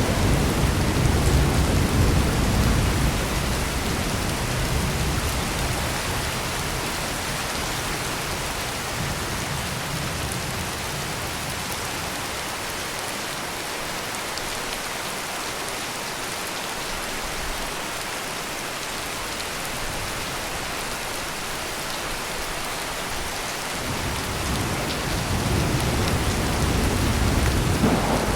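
Heavy rain pouring steadily, with a low rumble of thunder fading away over the first few seconds and another rumble building near the end.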